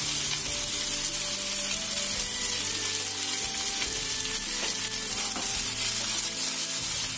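Tofu, chicken wings and aromatics sizzling in hot oil in a frying pan, stirred with a plastic slotted spatula, with a few clicks and scrapes as the spatula works the pan.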